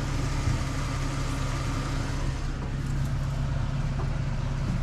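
A vehicle engine idling steadily with an even hum.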